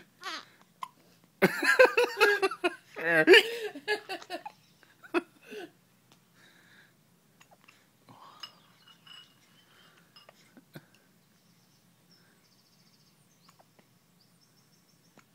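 Newborn baby making two bursts of squeaky, straining vocal noises in the first few seconds, then only faint small sounds.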